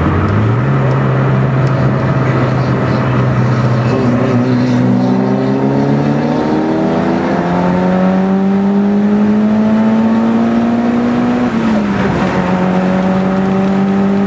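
Car engine accelerating hard at full throttle, its pitch climbing steadily, with a gear shift that drops the pitch about twelve seconds in before it climbs again.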